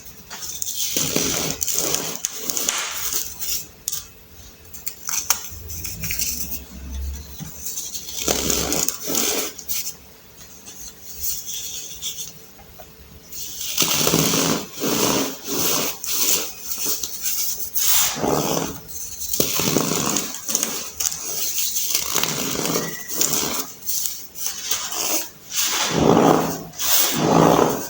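Reformed baking soda being crushed and crumbled, an irregular run of crunchy, crackling crunches. There is a quieter stretch of softer crumbling in the middle.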